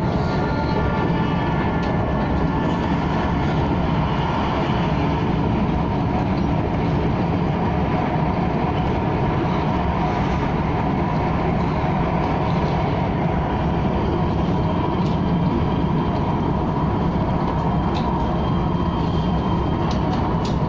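KTM ETS electric train running at a steady speed, a continuous rumble with a few faint steady tones over it.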